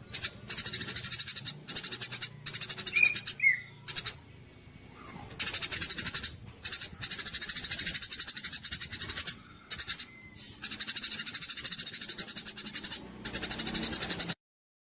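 Gereja cililin kapas tembak songbird singing in rapid, high, buzzy trills. The bursts last a second or two with short breaks, and a few lower chirps come about three to four seconds in. The song cuts off suddenly near the end.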